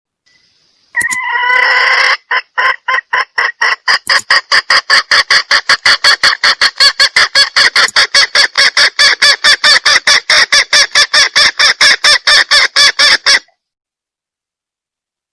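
Recorded junglefowl hen calling, used as a lure for males. A drawn-out call starts about a second in, then gives way to a fast run of sharp clucks that quickens to about four or five a second and cuts off suddenly near the end.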